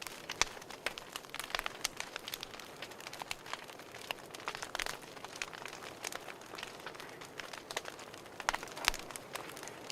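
Wood fire crackling in a fireplace: irregular sharp pops and snaps over a soft hiss.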